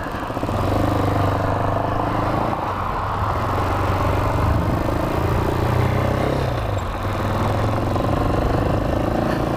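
Hawk 250 dirt bike's single-cylinder four-stroke engine running while riding, its pitch rising and falling with the throttle.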